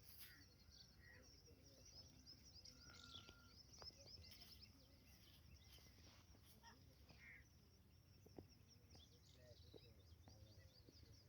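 Faint chirping of small birds, many short quick calls overlapping throughout, over low background noise, with a few soft clicks.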